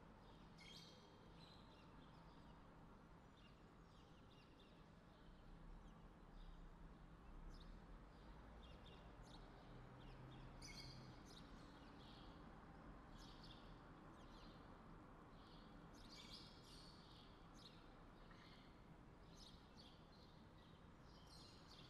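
Very faint outdoor ambience: small birds chirping now and then over a low, steady background noise.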